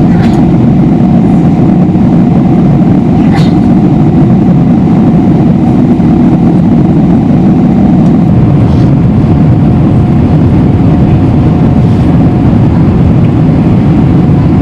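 Cabin noise of a Boeing 777-300ER on approach, its GE90 engines and the airflow making a loud, even rumble with a faint steady hum above it. Two short clicks or rattles sound in the first few seconds.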